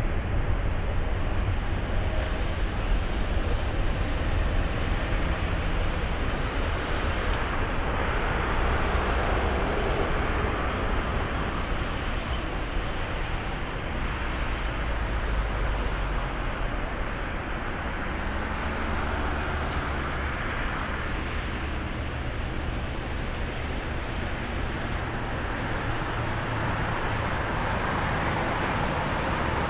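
Jet airliner's engines at takeoff power: a steady deep rumble with a rushing hiss that swells and eases slowly a few times.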